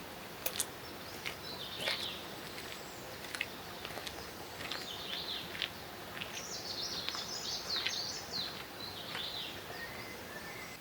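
Songbirds chirping and singing in short phrases over a steady faint outdoor hiss, with a few sharp clicks; the birdsong is busiest from about six seconds in.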